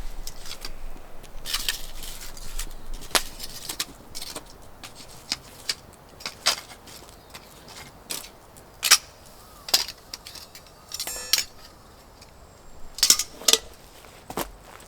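Scattered light clicks, knocks and clinks of small objects being handled, with a short fast rattle of clicks about eleven seconds in.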